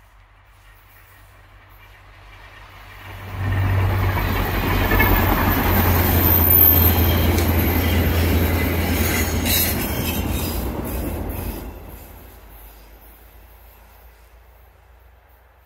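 Via Rail F40PH-2D diesel locomotive passing slowly with its passenger cars: the low engine drone swells over the first few seconds, holds loud for about eight seconds, then fades as the train moves away. A thin high squeal rides on it early in the pass, and a quick run of clicks comes near the end of the loud part.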